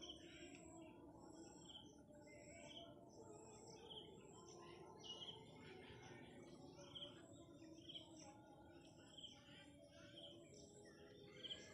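Faint birds chirping outdoors: short high chirps every second or two over a quiet, steady background.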